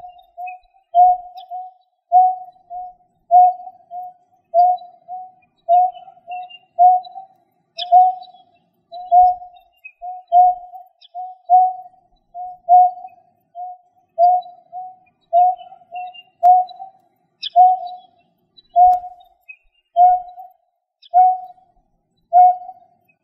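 A bird's lure call: one short, low hooting note repeated steadily, about three notes every two seconds, with a few faint high chirps now and then.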